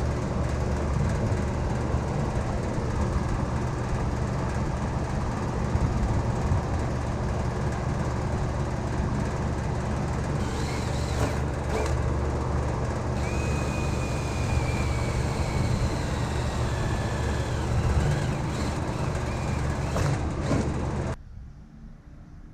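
A motor running steadily with a low rumble; it cuts off abruptly near the end.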